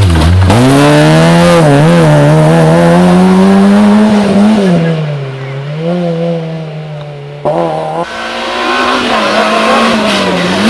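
Rally car engine at full load, its pitch rising and dropping sharply again and again with gear changes and lifts. It grows quieter for a few seconds, then is suddenly loud again about seven and a half seconds in.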